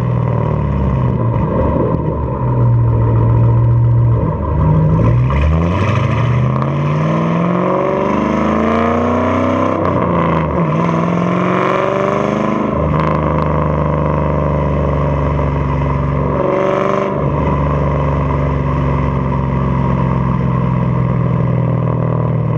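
2006 Mustang GT's 4.6-litre three-valve V8 through a BBK off-road X-pipe and Pypes Pype-Bomb axle-back exhaust, accelerating: the pitch climbs in short pulls over the first few seconds, then a longer pull up to about halfway, where it drops suddenly as the throttle closes. It then runs at a steady low drone, with a brief change near three quarters in.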